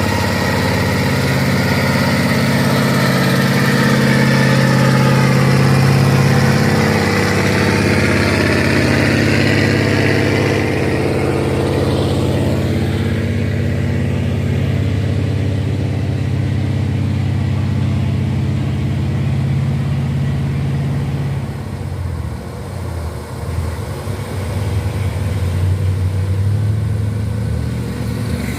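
Heavy truck's diesel engine labouring up a steep climb. It grows louder over the first several seconds, fades after about eleven seconds, then turns lower and uneven near the end.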